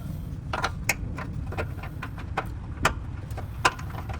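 Irregular metallic clicks and light knocks of hands and tools working a car axle into place, with a few louder clanks, over a steady low hum.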